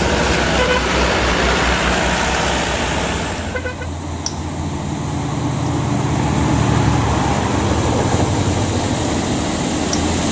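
Diesel truck engine running under load on a steep climb, with road and traffic noise; its low note grows stronger about three and a half seconds in.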